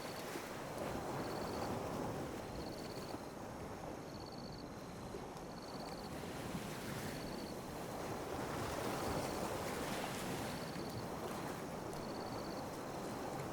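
Calm sea waves lapping on a beach, the wash swelling and ebbing every few seconds. A faint short high chirp repeats about once a second.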